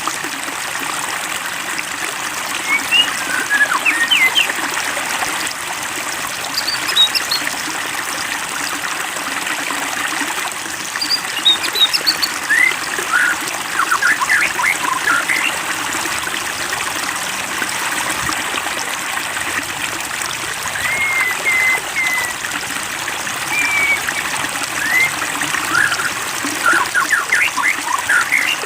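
Steady trickling, babbling water. Short bird chirps and calls break over it in a few clusters, about three seconds in, in the middle, and near the end.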